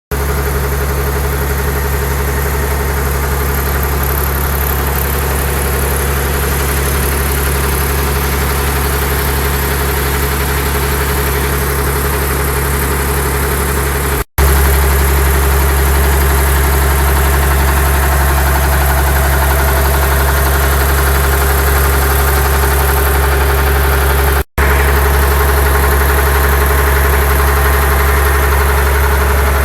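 CAT 250 hp diesel engine running at a steady speed while driving a slurry pump, a constant low drone. The sound drops out for a moment twice, about halfway through and again later.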